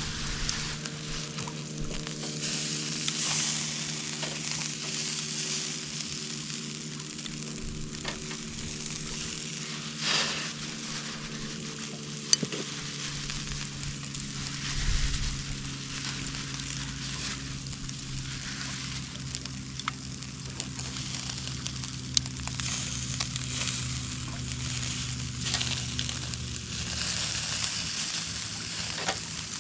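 Chicken sizzling on a charcoal mangal grill, a steady hiss with scattered pops and crackles, over a steady low hum.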